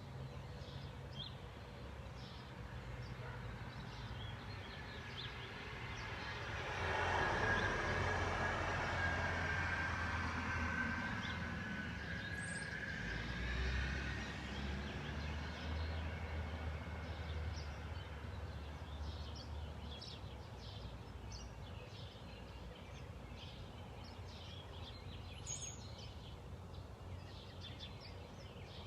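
A motor vehicle passing: engine hum and road noise swell about six seconds in and fade away over the next dozen seconds. Small birds chirp now and then throughout.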